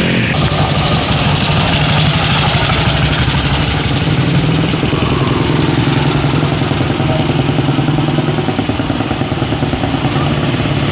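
A motor vehicle's engine running at a steady idle.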